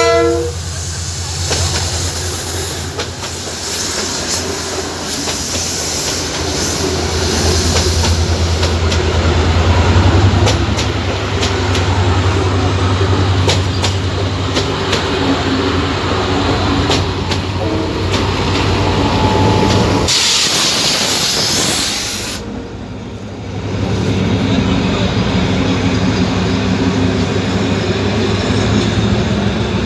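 A train running with a steady low hum and scattered clicking from the wheels and rails. About twenty seconds in, a loud hiss lasts two or three seconds and then cuts off.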